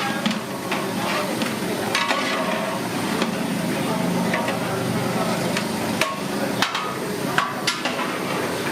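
Irregular metal clanks and knocks of cooking utensils working in pots at a busy street-food stall, over a steady background din.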